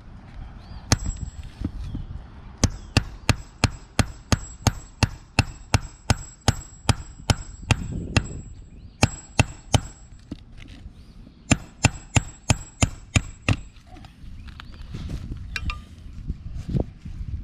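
Hammer blows on a roof during a shingle repair, a steady series of sharp strikes about two or three a second, a short pause, then a second shorter series.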